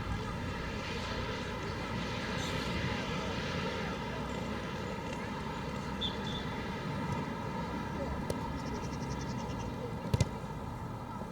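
Steady outdoor background of a football match: a continuous low drone with faint distant voices, and a sharp double knock about ten seconds in.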